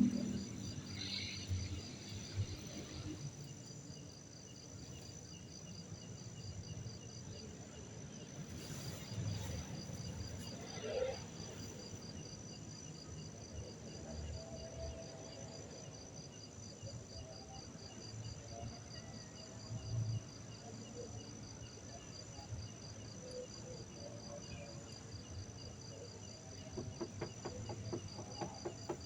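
Crickets or other insects chirring steadily in a fast, even pulse, with a few soft low thumps in the background.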